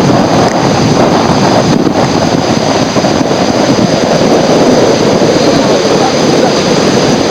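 Loud, steady rushing of whitewater on a river, with no breaks or distinct events.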